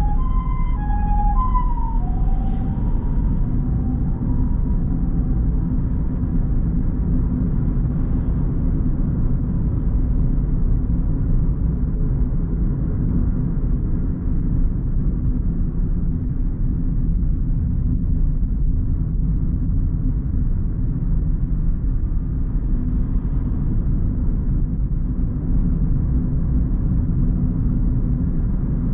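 A car driving, with a steady low rumble of road and engine noise. In the first few seconds a two-tone siren alternating high and low notes drops in pitch and fades away.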